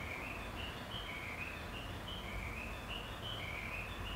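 Faint bird chirping: short, repeated calls, about two or three a second, alternating between a lower and a higher note, over a low steady background noise.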